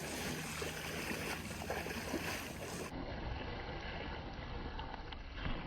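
Steady rush of stream water with wind noise on the microphone. The sound turns duller about three seconds in, losing its highest part.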